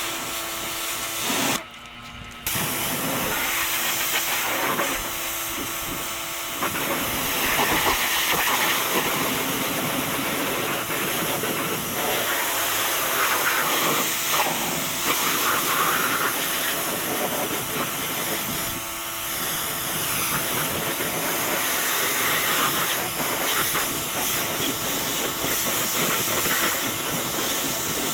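Pressure washer spraying water in a steady hiss, cutting out briefly about two seconds in and then carrying on.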